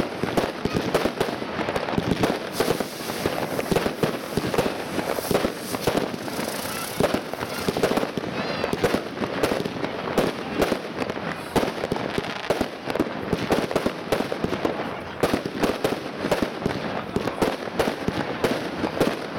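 Class 2 (F2) consumer fireworks going off in a dense, continuous barrage of bangs and crackles as aerial effects burst overhead.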